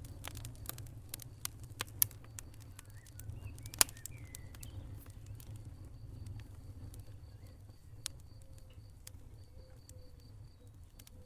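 Wood fire crackling in a fireplace: irregular sharp pops and snaps over a low steady rumble of the flames, with the loudest pops about two and four seconds in. A faint, high, evenly pulsed chirping runs underneath from about two seconds in.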